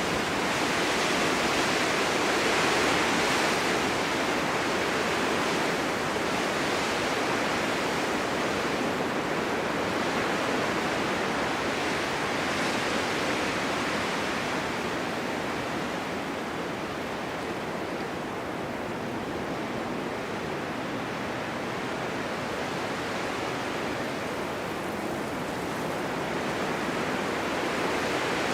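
Blizzard wind driving snow, a steady rushing hiss that swells and eases slowly in strength.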